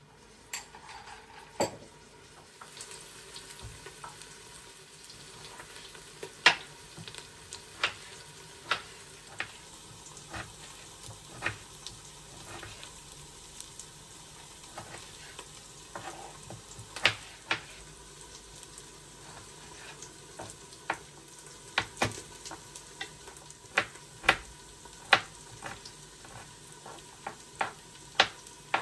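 Food sizzling in a frying pan, with a utensil stirring and clicking against the pan every second or two. The sizzle starts about two seconds in.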